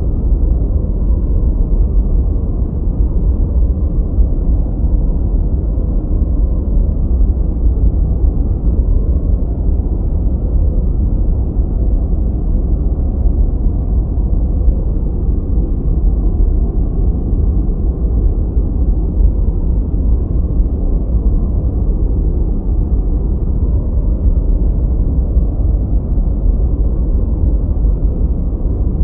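Continuous deep noise of the 'white noise' kind played for study or sleep: a steady, even hiss-like rush with most of its weight in the bass and nothing above the upper midrange, unchanging throughout.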